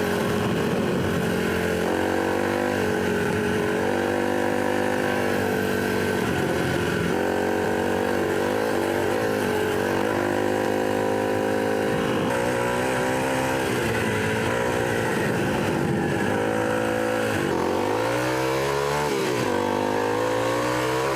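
Kawasaki KLX300's single-cylinder four-stroke engine running under a trail rider's throttle, its revs rising and falling as the bike picks its way along a dirt trail, with a long climb in revs near the end.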